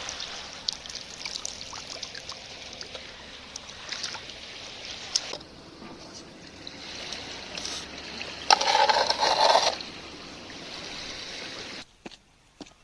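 Water trickling and splashing, with a louder rushing splash lasting about a second a little past the middle. Near the end it cuts off abruptly to a much quieter room with a few faint ticks.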